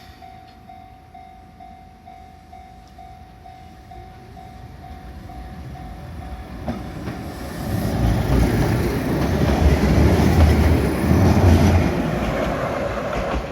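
Level-crossing bell ringing about twice a second, then a Keihan 700 series two-car electric train running over the crossing. Its wheels and running gear rumble and clatter, loudest about two-thirds of the way in, and ease off near the end.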